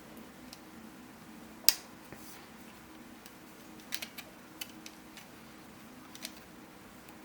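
3D-printed plastic puzzle pieces clicking as they are snapped together: a few sharp clicks, the loudest about a second and a half in, a quick cluster around four seconds and another near six.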